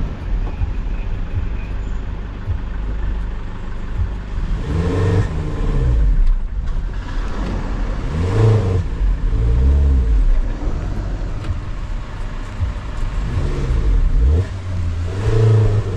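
Motor vehicle engine running over a steady low road rumble, its pitch rising and falling several times as it revs up and eases off.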